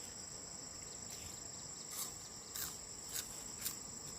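Steady high-pitched chirring of insects such as crickets, with four sharp clicks or snaps in the second half.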